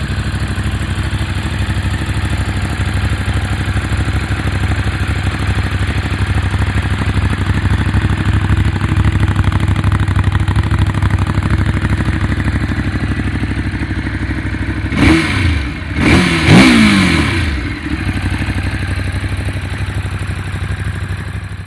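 2018 Ducati Monster 821's 821 cc L-twin engine idling steadily, blipped twice about two-thirds of the way through: a short rev, then a longer one rising and falling back to idle.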